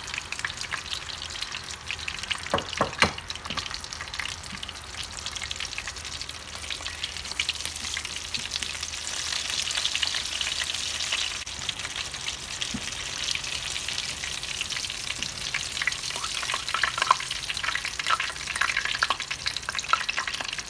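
Flour-coated chicken thighs deep-frying in vegetable oil in a frying pan, a steady sizzle and crackle of oil. There are two sharp knocks about three seconds in.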